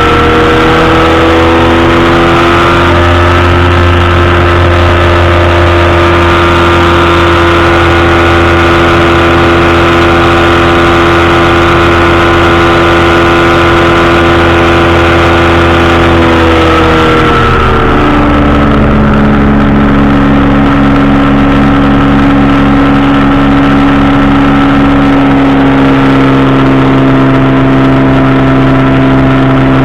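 Powered parachute's engine and propeller running steadily at cruise power, then throttled back about 17 seconds in, dropping to a lower steady pitch.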